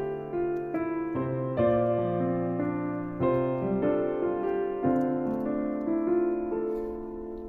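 Background music: a slow piano piece, chords struck about once a second or two and left to ring and fade.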